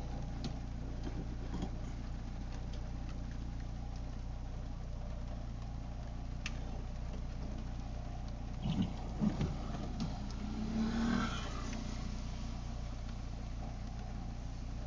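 A car driving in the rain, heard from inside the cabin: a steady engine drone with road and rain noise. A few short, louder sounds come about two-thirds of the way through.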